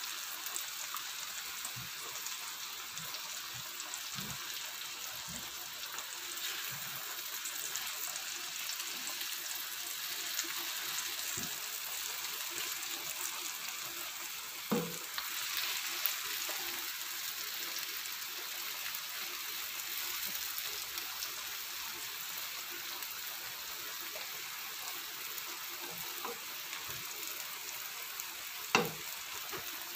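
Slices of yellow pumpkin frying in oil in a pan, a steady sizzle. Two sharp knocks sound over it, one about halfway through and a louder one near the end.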